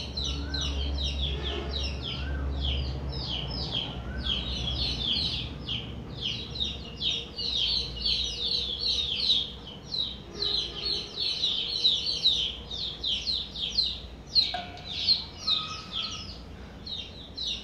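Several small birds chirping continuously, many quick high chirps overlapping one another.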